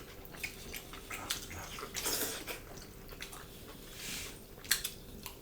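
Close-up eating sounds: wet chewing and lip smacks, with scattered small clicks coming at an uneven pace.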